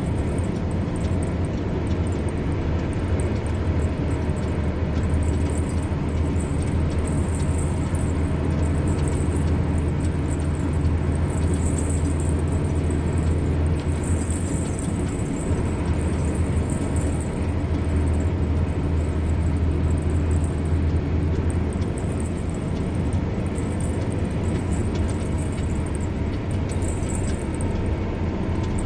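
Steady road noise of a car driving: a constant low engine and tyre rumble with no break.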